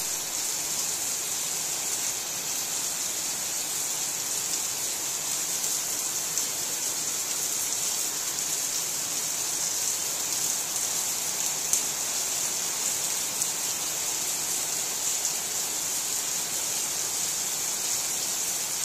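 Steady rain falling on wet stone paving tiles and puddles, an even hiss without a break.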